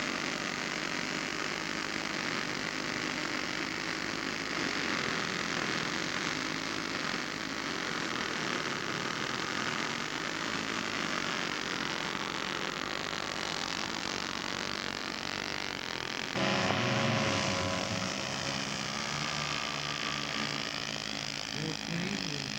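Radio-controlled scale model airplane in flight, its propeller engine running steadily. About sixteen seconds in, it comes by closer and suddenly louder, its pitch sweeping as it passes.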